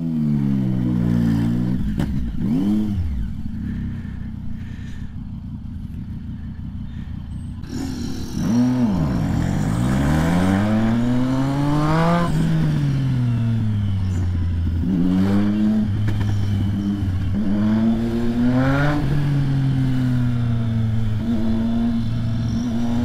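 Triumph Street Triple's inline three-cylinder engine. The revs drop at first, then it runs quietly at low revs for several seconds. About eight seconds in it revs up hard, and the pitch climbs and falls several times as the bike accelerates through the gears and slows again.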